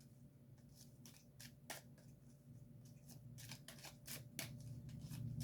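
Faint, sharp flicks and clicks of tarot cards being shuffled and handled, scattered irregularly and coming thicker in the second half.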